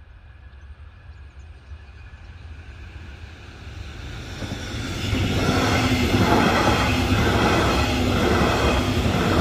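Diesel-hauled double-deck passenger train approaching and passing over a level crossing. The sound builds over the first few seconds, then becomes a steady loud rumble of wheels on the track with a regular beat about once a second.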